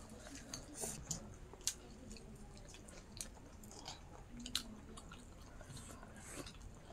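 A person chewing a mouthful of pork close to the microphone: faint, wet mouth clicks and smacks scattered irregularly through the chewing.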